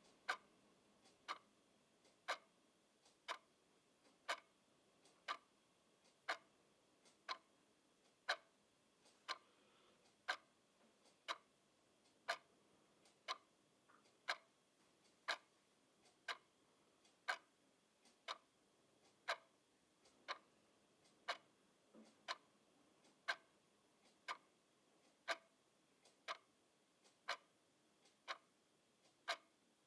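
Clock ticking steadily, about one sharp tick a second, with fainter clicks falling between some of the ticks.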